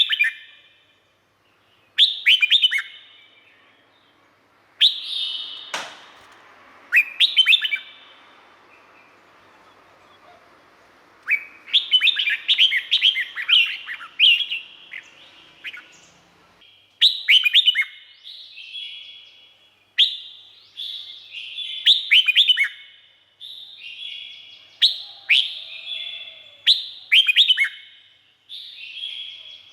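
Red-whiskered bulbul singing short, quick, warbled whistled phrases, one every second or two, with a pause of a few seconds about a third of the way in. A single sharp click sounds about six seconds in.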